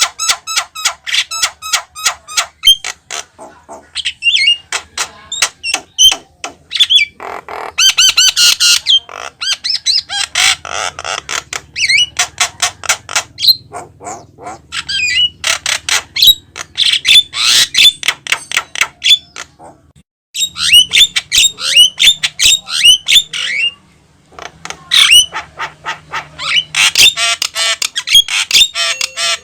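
Javan myna singing continuously: rapid clicking chatter mixed with harsh squawks and whistled notes, broken by short pauses about twenty seconds in and again about four seconds later.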